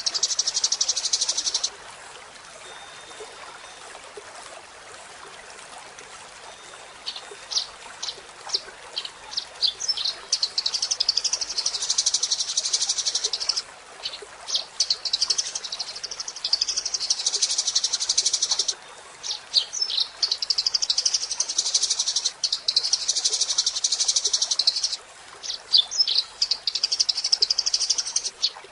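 Eurasian tree sparrow singing: fast, dense chattering trills in runs of a few seconds, separated by short gaps and loose single chirps. After a brief opening burst there is a lull of about five seconds before the singing picks up again.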